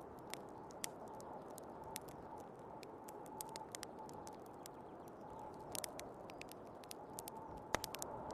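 Wood fire crackling with irregular sharp pops, one louder pop near the end, over a steady haze of snowstorm wind with a faint wavering whistle.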